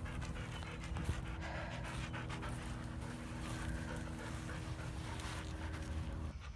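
Golden retriever panting steadily.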